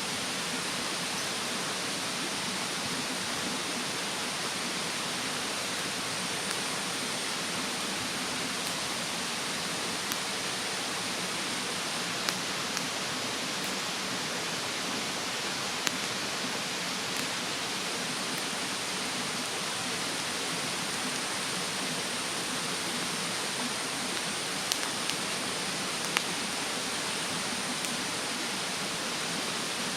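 Wood fire burning in a fire stand, giving a few sharp crackling pops, over the steady rush of a mountain stream.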